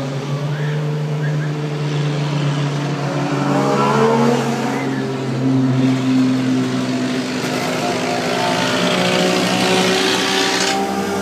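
Several old cars' engines running together, one revving up about four seconds in, with engine pitches shifting up and down.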